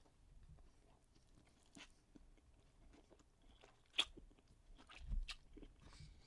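Faint chewing and crunching of food as a man eats, with a few scattered sharp clicks and a low thud about five seconds in.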